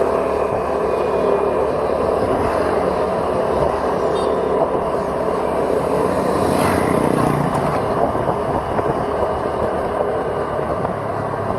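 Steady engine and road noise from a vehicle travelling along a road, with a brief swell of rushing noise about seven seconds in.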